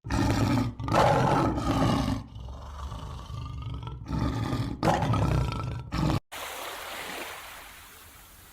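A large wild animal roaring: a string of loud, rough calls with short breaks over about six seconds. The calls cut off abruptly, leaving a faint steady hiss.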